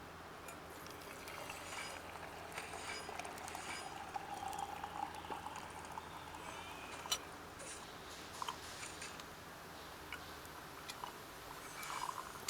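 Liquid being poured for about three seconds, with scattered small clicks around it.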